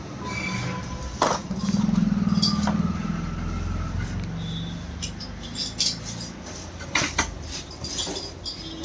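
Small motorcycle engine running, swelling louder for a couple of seconds about a second and a half in, then settling back, with a few sharp metallic clicks.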